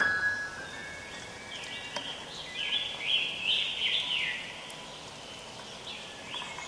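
Birdsong in a field recording: a songbird sings runs of quick rising and falling whistled chirps, thickest in the middle, over a steady outdoor background hiss.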